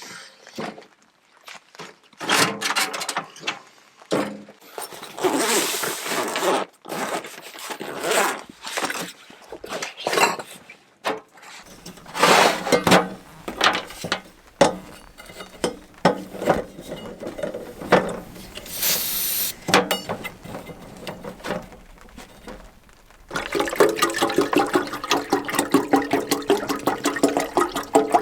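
Water being poured and running, with scattered knocks and clatter, turning into a denser, steadier sound about three-quarters of the way through.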